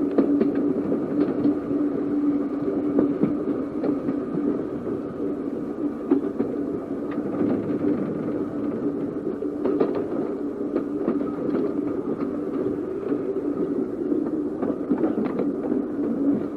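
Electric tram running along the track: a steady hum with scattered clicks and rattles over a rumbling ride.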